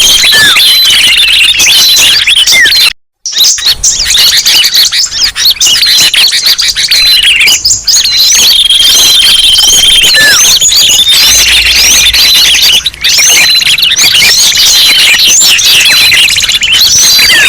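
A dense, loud chorus of many small songbirds chirping and calling over one another in quick, hooked notes and short whistles: a bird-lure recording made to draw birds in. It cuts out completely for a moment about three seconds in.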